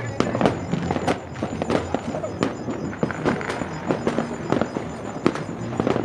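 Fireworks and firecrackers going off: a dense run of sharp bangs and pops, several a second at uneven spacing.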